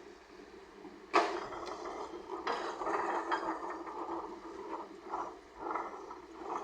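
Earthmoving machinery at work: a sharp metallic clank about a second in, then several seconds of irregular rattling and clattering over a steady engine drone.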